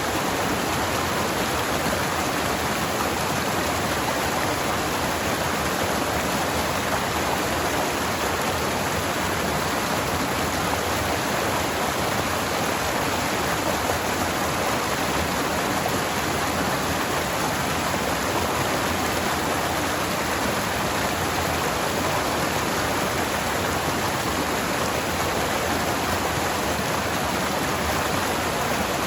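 Forest stream flowing steadily, a constant rushing of water with no breaks or changes.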